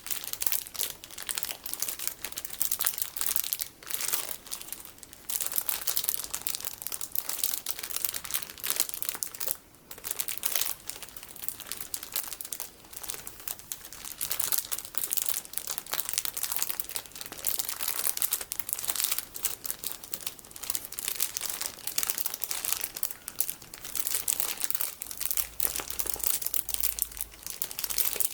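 Plastic packaging of colorful sticky beads being crinkled and squeezed, a dense, irregular crackling with a brief pause about ten seconds in.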